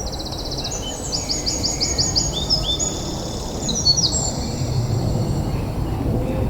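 A songbird singing high, rapid trills and runs of repeated notes for about the first four seconds, over a steady low rumble.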